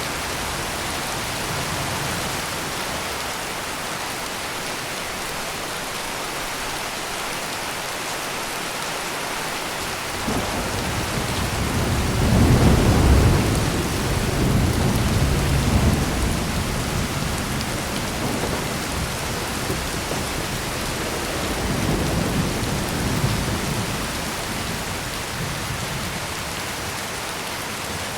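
Heavy rain pouring steadily, with a roll of thunder that starts about a third of the way in, is loudest a couple of seconds later and rumbles on for several seconds; a fainter second swell of rumbling comes shortly after.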